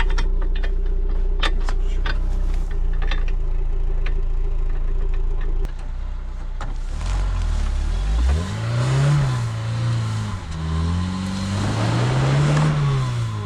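Niva 4x4 engine idling with scattered clinks, then revving up and down in two swells in the second half.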